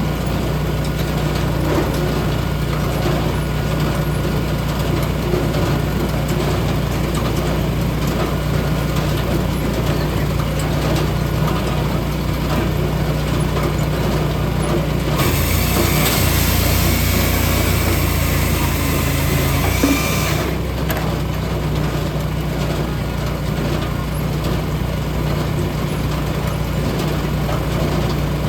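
Engine of a log splitter running steadily with a low hum. About halfway through, a louder hissing rush comes in for roughly five seconds, then drops away.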